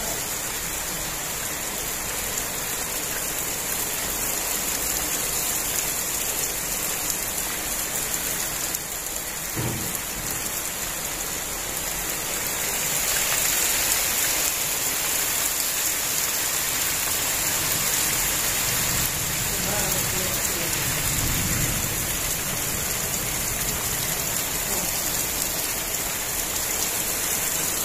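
Heavy rain falling steadily on concrete roofs and a wet courtyard, an even hiss throughout, with a brief low rumble about two-thirds of the way through.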